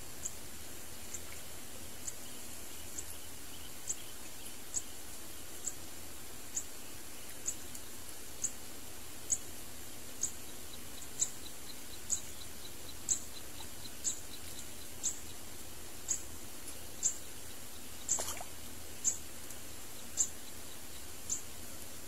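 Bird chirping: short, high chirps about once a second that grow louder as they go, over a steady hiss. A faint rapid ticking joins in the middle, and there is one louder, fuller call late on.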